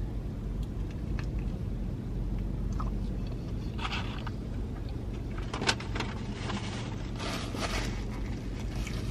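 Chewing and the rustle of paper food wrapping over the steady low hum of a car running, heard inside the cabin, with a louder crinkle patch about seven to eight seconds in.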